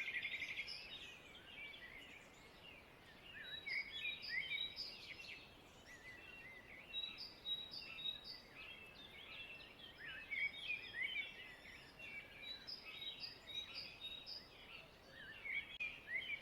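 Several songbirds chirping and singing, faint: many short rising and falling notes, with runs of quick repeated notes.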